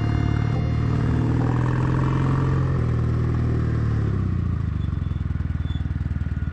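Motorcycle engine running on the move, with road and wind noise. About four seconds in the steady note drops away into a throbbing, pulsing beat, as when the throttle is rolled off.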